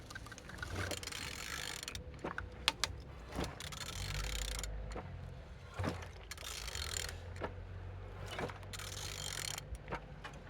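An engine being turned over by hand with a ratchet wrench at the crankshaft, in repeated strokes of ratcheting with sharp clicks between them, showing that the engine turns freely.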